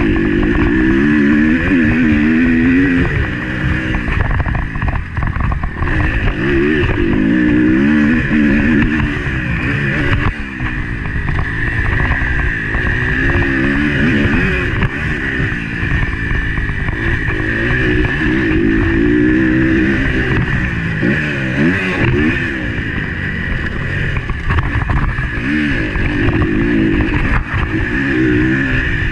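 Motocross bike engine heard on board, revving up and dropping back again and again as the throttle is opened and shut around the track.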